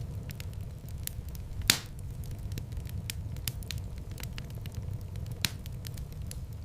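Wood fire crackling, with a steady low rumble of flames under frequent small crackles. Two louder sharp pops stand out, one a little under two seconds in and another near the end.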